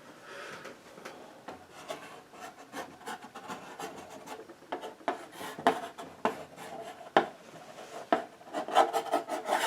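Short scratching and rubbing strokes of a tool worked across a painting surface, sparse at first and coming thicker and louder in the second half.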